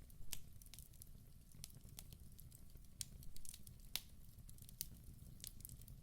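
Wood fire burning in a fireplace: a steady low rumble of flames with irregular sharp crackles and pops from the burning logs, several a second, a few louder pops among them.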